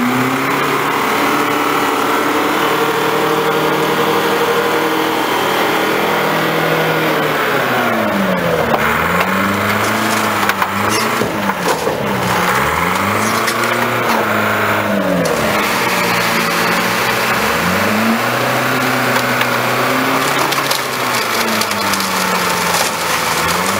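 Car crusher at work: its engine revs up and falls back again and again under load. Through the middle stretch there is cracking and crunching as the vehicle body gives way.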